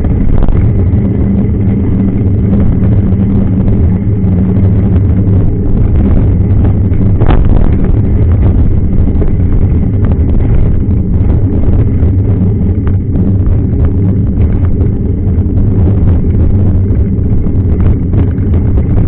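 Steady loud low rumble of wind buffeting the microphone of a camera on a moving mountain bike, with scattered short knocks and rattles from the ride; one knock is stronger about seven seconds in.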